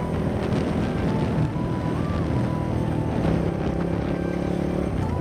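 Motorcycle engine running steadily while riding, with a thin tune stepping up and down above it.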